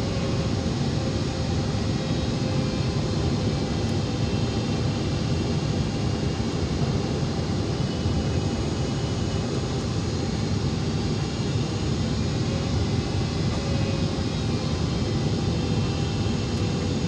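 Jet airliner heard from inside the cabin: a steady, even rush of engine and airflow noise during the approach, with no sudden events.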